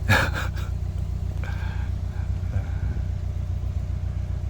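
Narrowboat engine idling with a steady low, even chug, with a brief louder sound right at the start.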